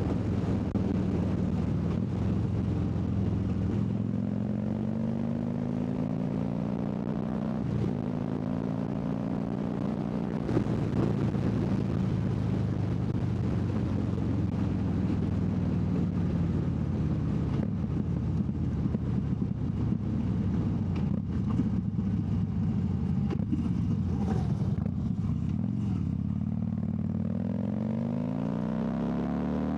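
Harley-Davidson V-twin motorcycle engine running at road speed, heard from the rider's seat with wind rushing over the microphone. The engine note rises and falls gently as the throttle changes, then climbs steeply near the end as the bike accelerates.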